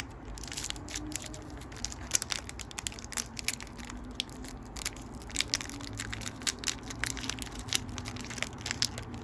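Crinkling and tearing of a foil Pokémon booster pack wrapper being opened by hand, an irregular run of sharp crackles.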